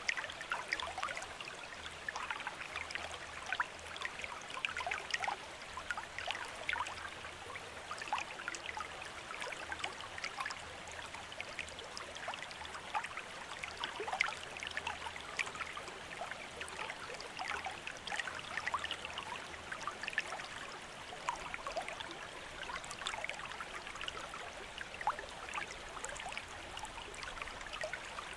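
Water trickling steadily from a bamboo fountain, with a constant patter of small, irregular splashes.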